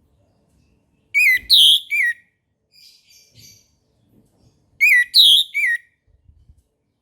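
Orange-headed thrush (anis merah) singing: two loud, identical short whistled phrases about three and a half seconds apart, each a quick rising flick, a strong falling note and another flick. Softer, quieter notes come between them.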